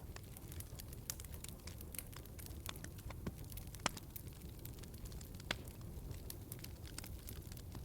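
Wood fire in a fireplace crackling, with a low steady rumble of flame and frequent sharp pops at irregular intervals, two of them louder about four and five and a half seconds in.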